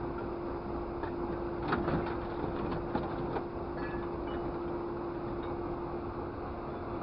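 Steady mechanical hum with one constant tone, with a few short clicks and knocks about two and three seconds in.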